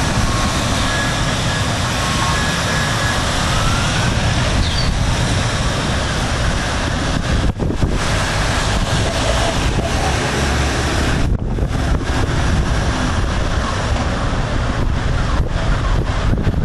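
Storm wind buffeting the microphone: a loud, steady rush of noise with a low rumble. Faint, broken high tones of a distant alarm sound in the first few seconds.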